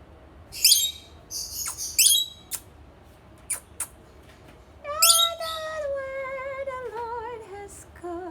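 Pet bird squawking: three short harsh calls in the first couple of seconds and a few sharp clicks. From about five seconds in there is a long, wavering, falling whistle-like tone.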